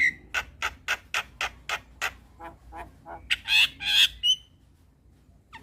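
Javan myna (jalak kebo) calling: a quick run of sharp repeated notes, about four a second, then a few louder, harsh squawks about three to four seconds in.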